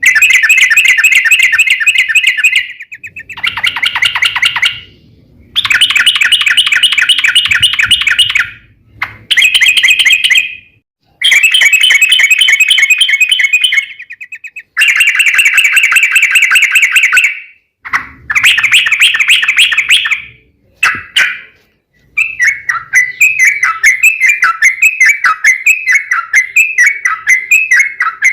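Yellow-vented bulbul (trucuk) singing vigorously: long, very fast rolling trills of two to three seconds each, separated by short pauses, giving way near the end to a quick run of repeated down-slurred notes.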